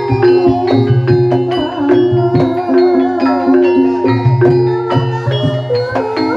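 Javanese gamelan music for an ebeg horse dance: mallet-struck metallophones play a steady repeated pattern, with a wavering melody line above it.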